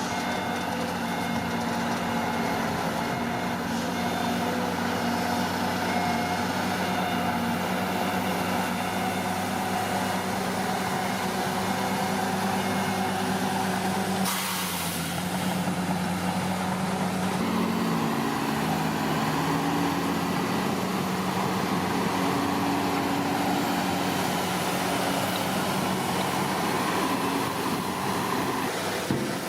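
Heavy diesel engine of a Komatsu D41P bulldozer running steadily. Past the middle its pitch dips and recovers a few times as the load changes. There is a short hiss about halfway through.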